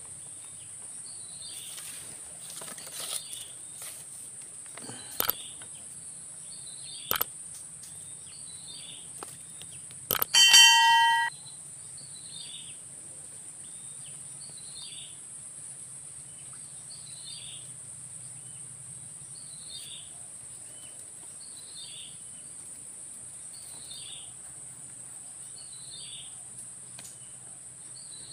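A bird repeats a short falling call every second or two over a steady high-pitched insect drone. A few soft clicks are heard, and about ten seconds in there is one brief ringing ding.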